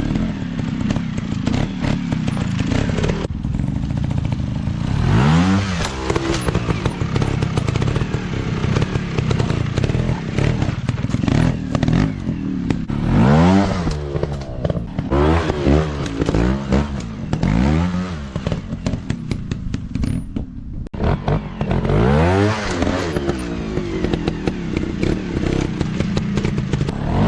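Motocross bike engines revving up and falling back again and again under the throttle, with scattered clicks and knocks.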